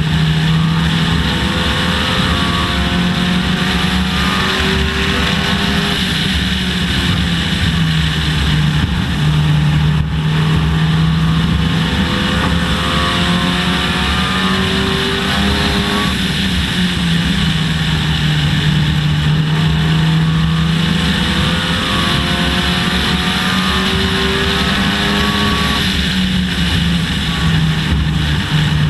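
Dodge Neon race car's four-cylinder engine heard from inside the car at racing speed. The engine pitch climbs steadily along the straights and drops off when the driver lifts for the turns, repeating lap after lap.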